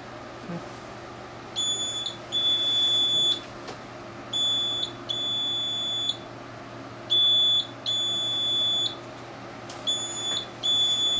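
Inkjet printer's error alarm beeping: a high short beep followed by a longer one, the pair repeating about every three seconds, signalling the printer is stuck in a service error.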